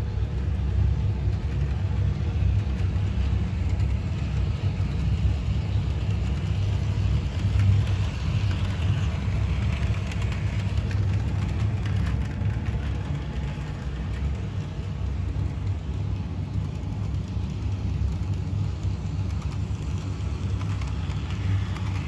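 Bachmann HO-scale Toby the Tram Engine model locomotive running on the track while pulling a passenger coach: a steady electric motor hum and wheel rumble at an even level.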